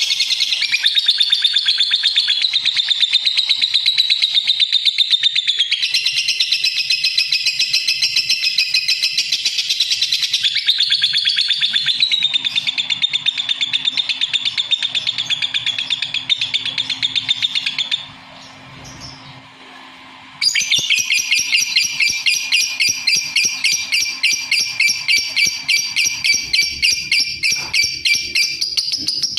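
Lovebird singing a long, very rapid, high-pitched chattering trill. It breaks off for about two seconds a little past the middle, then starts again.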